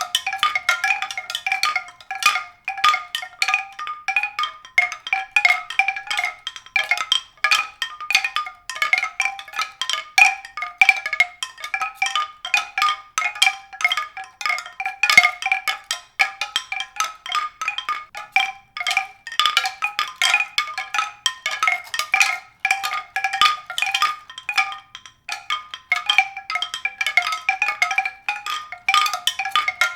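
Tinkling tuned percussion: many quick, irregular strikes ringing on the same few bright pitches over and over, with no bass.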